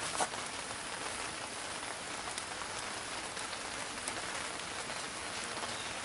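Steady rain falling on a canopy overhead: an even hiss with a few sharper clicks of single drops.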